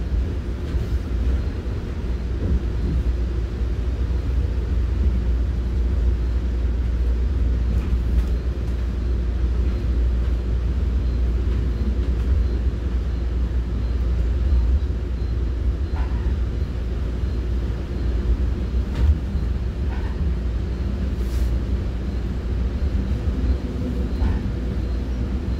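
Commuter passenger train running along the line, heard from inside a coach as a steady deep rumble, with a few faint clicks and rattles in the second half.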